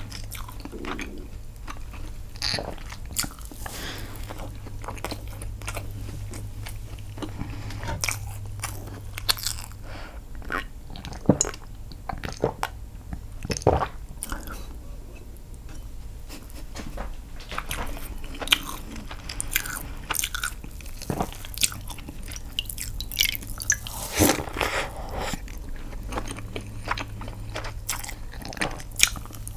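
Close-miked chewing and biting of castella sponge cake dipped in milk: irregular wet mouth clicks and smacks. A low steady hum sits underneath, dropping out for much of the middle.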